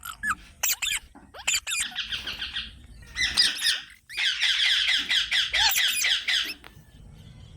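Green parakeets calling: a few short, sharp squawks, then long bursts of rapid, repeated high chattering notes from about three seconds in, fading out shortly before the end.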